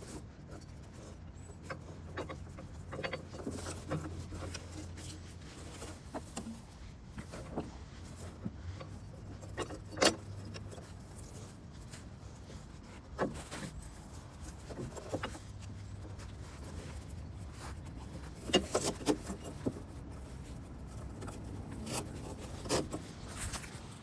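Scattered knocks and clatters of handling work, with a loud knock about ten seconds in and a quick run of sharp knocks near the end, over a low hum that comes and goes.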